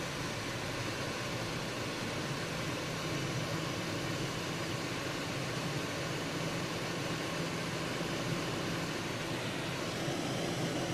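Steady in-cabin road noise of a car driving on an unplowed, snow-covered highway: a low engine hum under the even rush of snow tires and wind.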